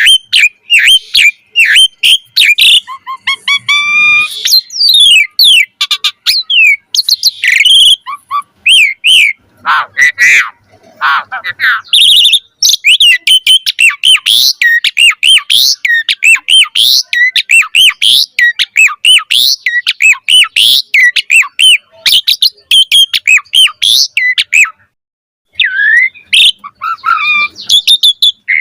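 Asian pied starling (jalak suren) in full song: a long, fast, varied run of loud whistles, chirps and harsher notes, with a brief pause about 25 seconds in.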